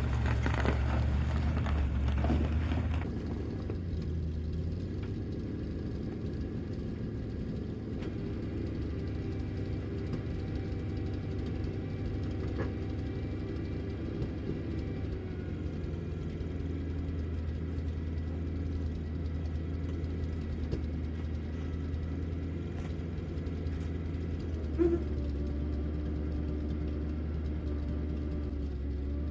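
Old International boom truck's engine running steadily at low revs, louder for the first few seconds and then settling, with one brief sharp knock about 25 seconds in.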